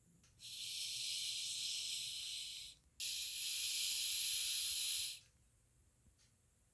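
A person hissing through the teeth twice, a long even 'sss' of about two seconds each with a short break between, as a voiced-out sound effect during a read-aloud.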